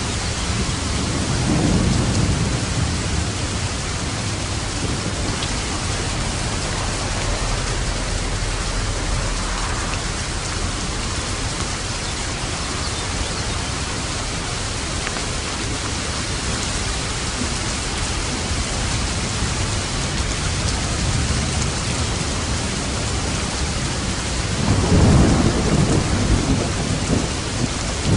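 Steady rain falling, with light thunder rumbling: a low roll about two seconds in and a louder one near the end.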